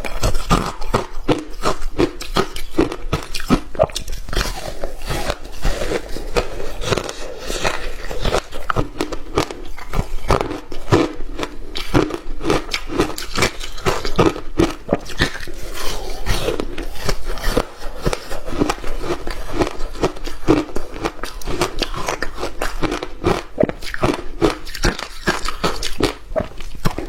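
A person biting and chewing hard ice close to the microphone: a dense, unbroken run of loud crunches and cracks as chunks break between the teeth.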